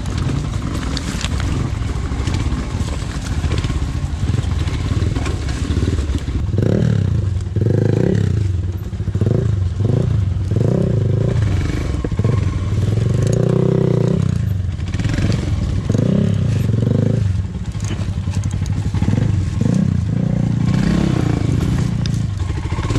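Royal Enfield Himalayan's single-cylinder engine running at low speed, then revved in a series of short bursts that rise and fall from about six seconds in to about seventeen seconds. This is the throttle being worked to push the bike up a steep, rocky climb the rider finds difficult.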